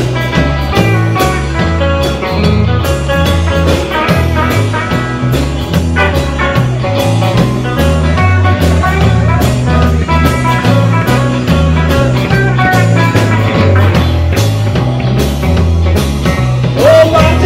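Live band playing an instrumental passage: a moving bass line, steady drum beats and guitar. A voice comes back in near the end.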